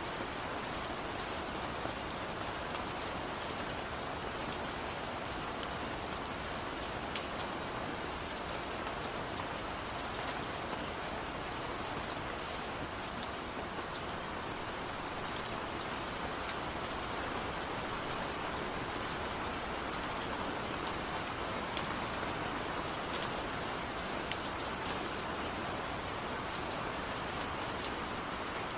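Steady rain falling, with sharp ticks of single drops scattered throughout.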